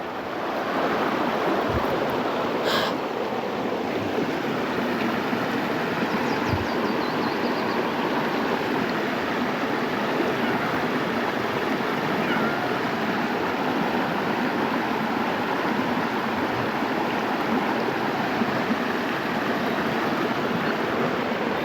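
Steady rushing noise, like running water or wind, with one short click about three seconds in.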